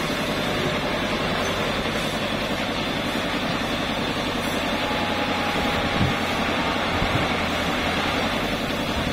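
Heavy diesel engine running steadily at a low, even speed, with a couple of brief knocks about six and seven seconds in.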